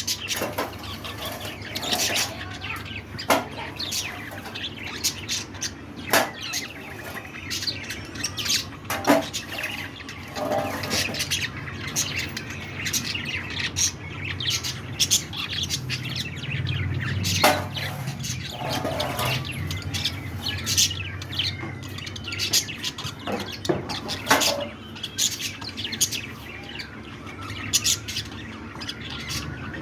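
Budgerigars chirping and chattering, with many short sharp calls overlapping throughout and a low hum about halfway through.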